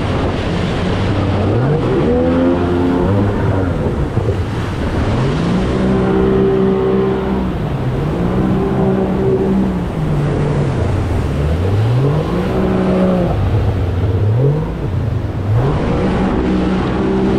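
Outboard jet motor on an inflatable jet boat running hard, its pitch rising and falling again and again every few seconds as the throttle is opened and eased, over a steady rush of water and wind.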